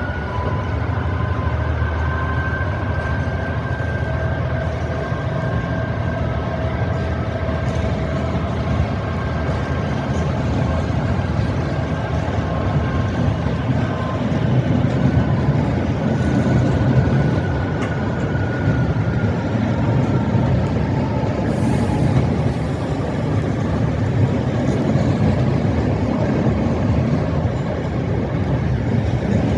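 A train running through the station with a steady low rumble and a few thin whining tones that slowly rise and fall in pitch.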